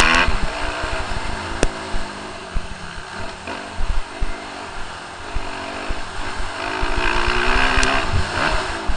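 Suzuki RM-Z250 motocross bike's four-stroke single-cylinder engine revving hard, rising and falling in pitch as the throttle opens and closes. It is loud at first, drops off in the middle, and picks up again near the end.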